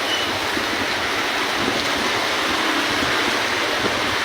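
Torrential rain driven by very strong wind, a steady loud rush of noise.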